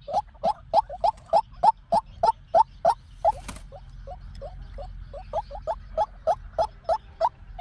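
White-breasted waterhen calling: a long series of repeated harsh notes, about three a second, loudest at first, fainter in the middle and stronger again near the end. A short burst of noise comes about three and a half seconds in.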